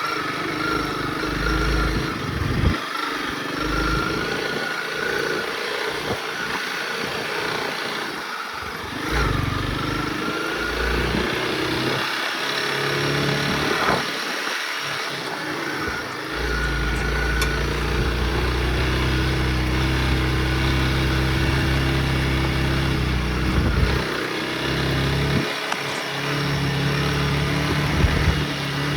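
Honda CRF motorcycle engine running on the move, its pitch rising and falling with the throttle, over an uneven low rumble that comes and goes.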